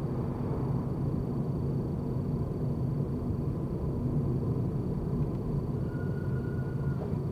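Car being driven: a steady low rumble of engine and road noise. A faint short high tone sounds about six seconds in.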